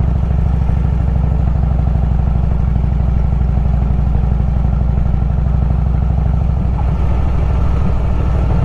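Harley-Davidson Road King's V-twin engine running steadily under way, a deep low rumble with a fast even beat; the beat turns a little uneven about seven seconds in.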